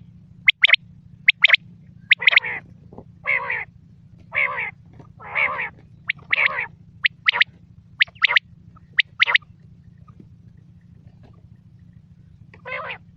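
Quail calling over and over. Short, sharp high notes come in quick pairs, and in the first half several longer, rougher and lower calls come about a second apart. A quiet gap near the end is followed by one more rough call, all over a steady low hum.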